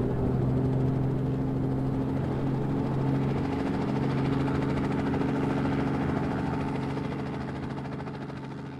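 Engine sound effect for a cartoon vehicle: a steady droning hum that fades away toward the end.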